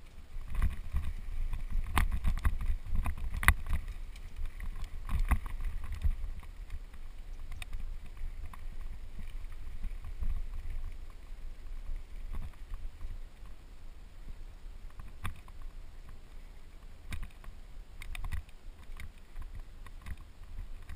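Mountain bike riding down a rough dirt trail: a steady low rumble of wind and ground on the camera, with scattered sharp clicks and rattles that come thick in the first six seconds and thin out after.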